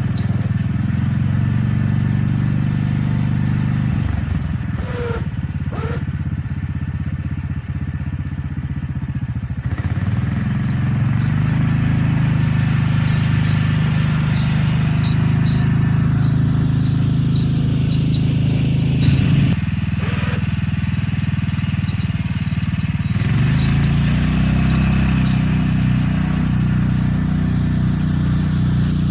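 Small engine of a homemade snow plow, newly installed with a new muffler, running under test. Its note thins out and picks back up a few times, with a brief louder bump about two-thirds of the way through.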